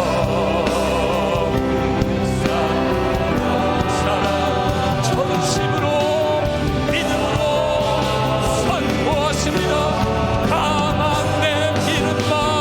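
Worship band playing a gospel praise song, with voices singing held, wavering notes over keyboards, bass and drums.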